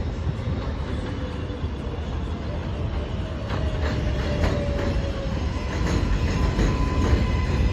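R188 subway train running on the 7 line, a steady low rumble with a run of sharp wheel clacks over the rail joints starting about three and a half seconds in, and faint steady whining tones above it.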